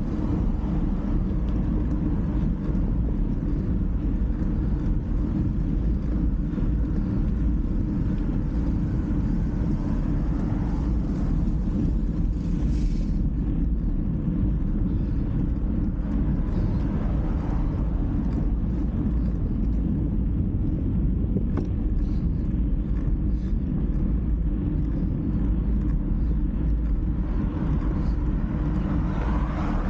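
Steady low rumble of wind and road noise picked up while riding, with a few faint rising and falling swells higher up.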